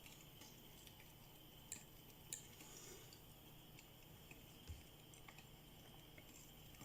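Near silence: faint room tone with a few soft, isolated clicks.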